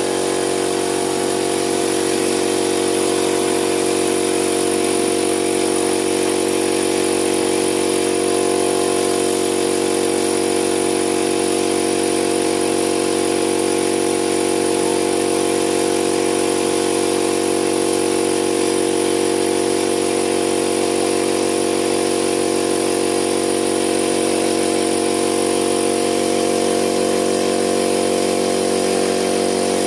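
A motor running steadily at an even speed, with a faint high whine above it; its low note shifts slightly near the end.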